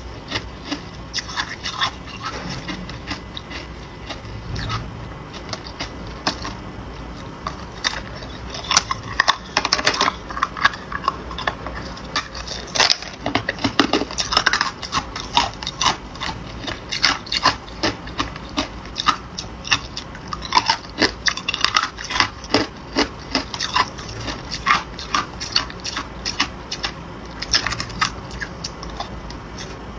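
Close-up chewing and crunching of hard ice: a dense, irregular run of sharp cracks and crunches as the ice is bitten and ground between the teeth.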